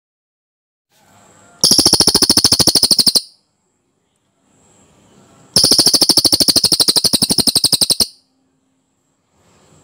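Cililin bird singing its dense rolling trill twice, each roll a fast run of clicking pulses lasting about two seconds. Each roll is preceded by a faint, thin high note, and another faint high note comes near the end.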